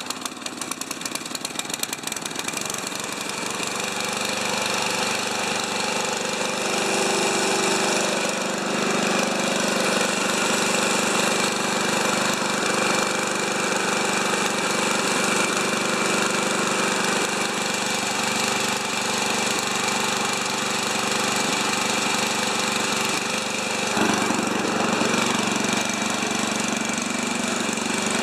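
John Deere 832 snowblower's single-cylinder engine running just after an electric start, choppy for the first couple of seconds and building up before settling into a steady run.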